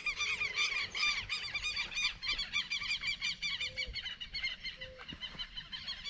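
Birds calling in a rapid run of short, harsh, repeated notes, several a second, growing fainter over the last couple of seconds.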